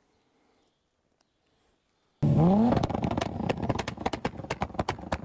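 Car engine revved hard: after a near-silent start it comes in suddenly about two seconds in, rising quickly in pitch, then carries on loud with a rapid run of sharp crackles.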